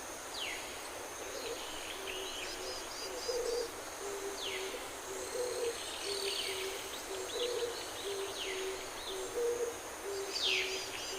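Birds calling: a low two-note hooting call repeated about every two seconds, with higher chirps and quick falling whistles from other birds over it.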